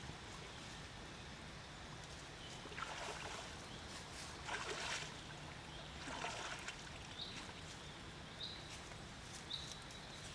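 Faint splashes of river water, three of them a second or two apart, over a steady low background hum, followed by three short high chirps in the second half.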